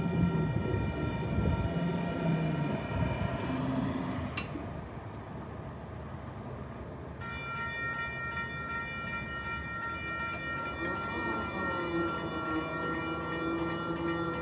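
Diesel train running through a station, its engine humming over rail rumble. About halfway through, a set of steady high tones sets in and holds.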